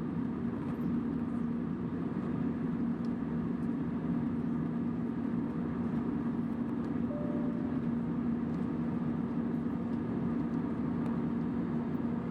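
Airbus A320 cabin noise in flight: the steady rush of airflow and jet engines, with a constant low hum.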